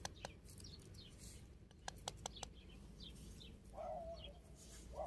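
Birds chirping faintly in the background, with a few short clicks around the middle and a low warbling bird call near the end.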